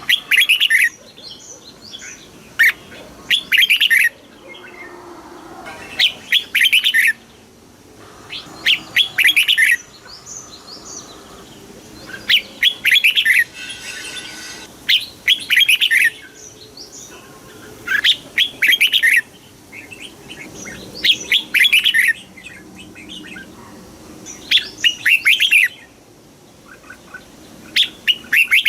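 Red-whiskered bulbul singing: short, bright warbled phrases about a second long, repeated every two to three seconds.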